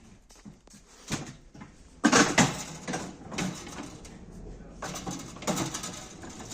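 A few faint knocks, then from about two seconds in a run of loud knocks and clattering, several sharp strikes over a rougher noise.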